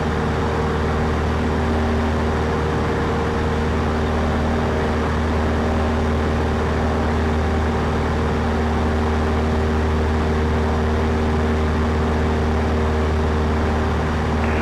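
Cessna 152's four-cylinder Lycoming engine and propeller droning steadily in cruise, heard from inside the cockpit, with a strong low hum and no change in engine speed.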